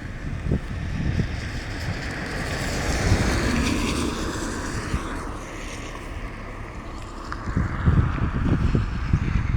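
Garbage truck running, with an uneven engine and road rumble under a hiss of wind on the microphone.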